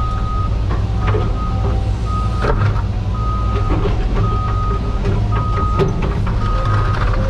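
Cat 320 GC excavator's diesel engine running steadily with a low drone under load. A backup alarm beeps about once a second, and a few sharp metallic knocks sound, the clearest about two and a half and six seconds in.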